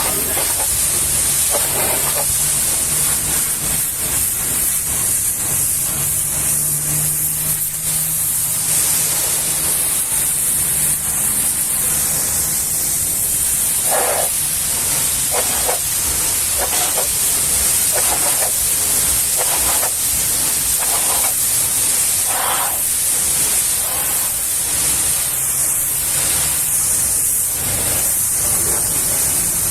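Pressure washer spraying: a steady high hiss with a faint low hum under it.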